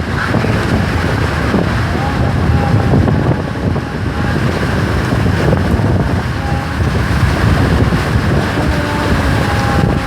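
A rainstorm with strong wind: a dense rush of rain and gusts, with heavy wind buffeting the microphone.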